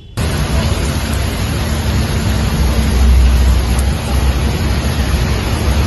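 Heavy rain falling: a steady loud rush that starts abruptly, with a low rumble underneath.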